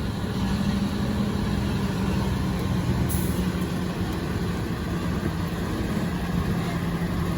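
Heavy truck engine running steadily under load, a low drone that holds one pitch throughout, with a brief high hiss about three seconds in.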